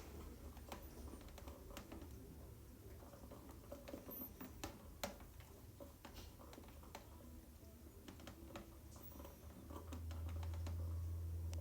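Faint, irregular light clicks and scratches over a low steady hum inside a car; the hum swells about ten seconds in.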